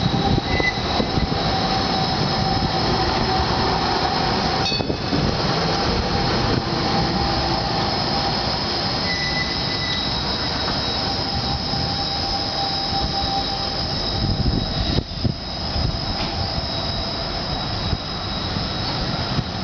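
Basel tram moving on its rails, its steel wheels squealing in steady high ringing tones over the rumble of the running gear.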